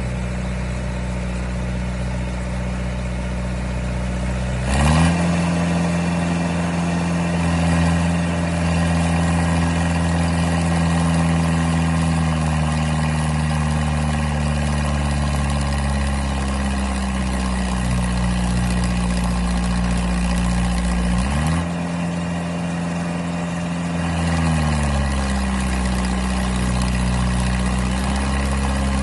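Diesel engine of a crawler pile driver running steadily, revving up about five seconds in and holding there, easing back, then revving up again past the twenty-second mark before dropping back.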